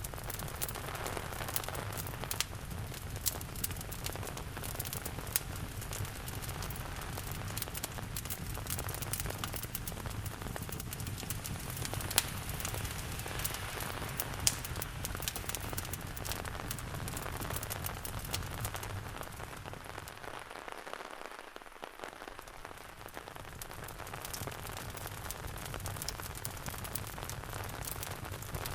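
Steady rain with a wood fire crackling in a fireplace, its sharp pops and snaps scattered through the patter, a few of them louder.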